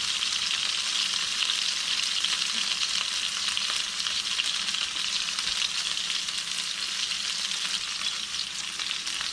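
Ahi tuna steaks topped with basil pesto sizzling in a pan with the heat turned off, a steady crackling sizzle as the pesto oil runs off under the steaks.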